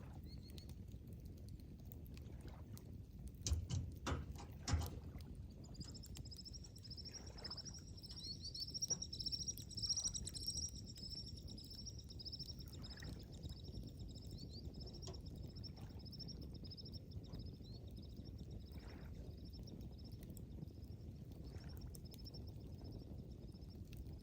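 Campfire crackling, with a few sharp pops about three to five seconds in, over a low steady rumble. From about five seconds in, a high, continuous chirring trill starts up and carries on.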